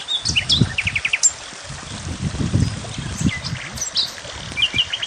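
Small songbirds chirping, with two short rapid trills of four or five notes, one about a second in and one near the end, over an irregular low rumble.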